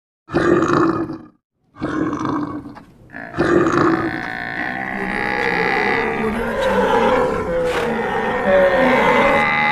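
Animal roars, four in a row about a second and a half apart, then from about three seconds in a dense layered mix of animal calls and grunts with steady tones running under them.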